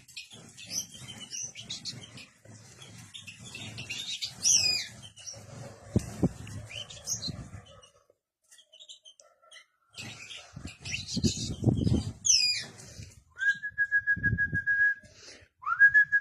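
Pet birds chirping, with two sharp falling calls and a long, steady whistled note near the end; bouts of low rumble come in between.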